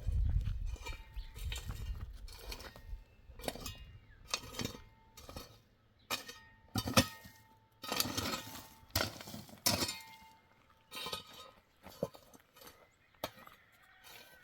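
Hard objects clinking and knocking against each other again and again, some clinks ringing briefly, with a low rumble in the first three seconds.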